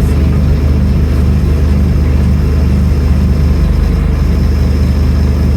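Scania N310UA articulated bus's diesel engine running steadily, a constant low hum with no change in pitch.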